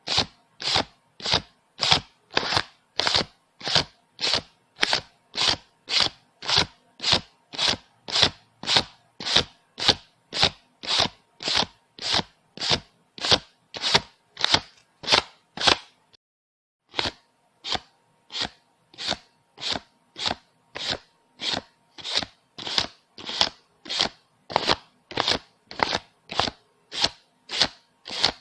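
Paper banknotes counted by hand, each bill flicked or brushed off the stack in a crisp, even stroke about twice a second, with a brief pause about sixteen seconds in before the counting resumes.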